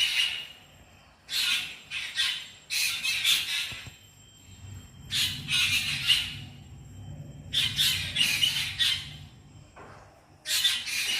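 A bird calling in harsh, rasping bursts about a second long, often two or three close together, repeating every two to three seconds.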